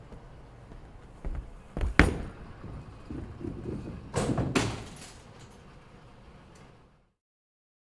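Several sharp knocks and thumps over low background noise, the loudest about two seconds in and two more close together about four seconds in.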